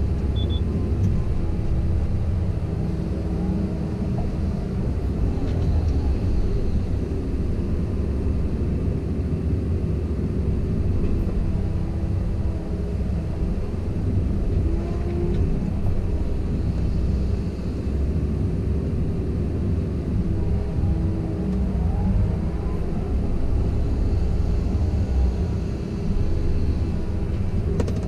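Komatsu PC170LC-10 hydraulic excavator's diesel engine running steadily under working load, with hydraulic pitch shifting slightly as the machine moves.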